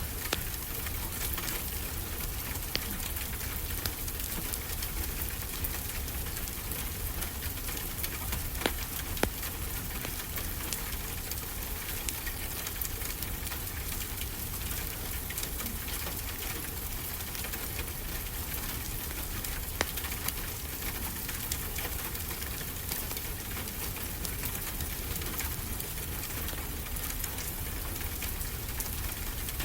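Steady rain, with a few sharp crackles from a wood fire in a fireplace.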